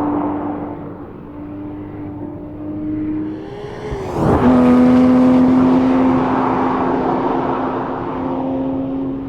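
Porsche 911 R's 4.0-litre naturally aspirated flat-six engine holding a steady pitch. About four seconds in the note swoops down and comes back, and the engine is louder after it.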